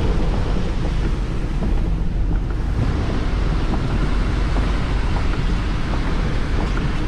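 Steady rush of hurricane wind and water with a strong low rumble, heard from a vehicle driving through storm-surge floodwater.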